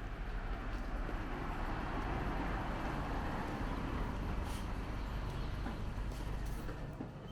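A car passing by, its noise swelling and then fading over several seconds, over a steady low rumble.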